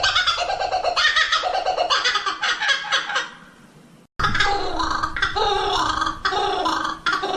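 Songbirds singing rapid, chattering strings of high notes. About three seconds in the song fades away, and after a brief silence a different bird's song starts up.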